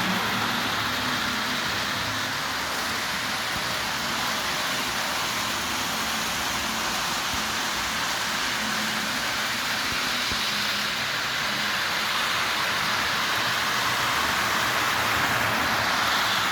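Lionel U36C O-gauge diesel locomotive backing its train of metal-wheeled cars along the track: a steady rolling rumble of metal wheels on rails over a faint motor hum.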